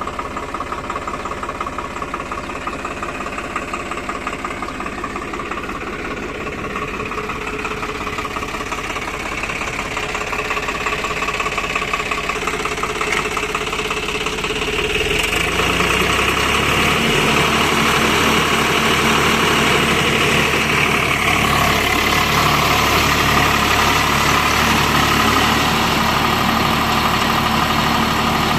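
Swaraj 744 FE tractor's three-cylinder diesel engine running steadily, driving a rotavator. About halfway through it grows louder and heavier, as if the engine is put under more load or revs.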